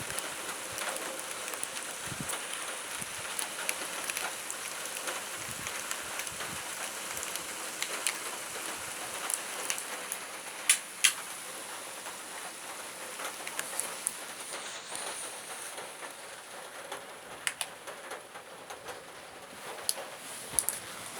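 Rain falling: a steady hiss of rain with individual drops tapping throughout, and two louder drops close together about eleven seconds in.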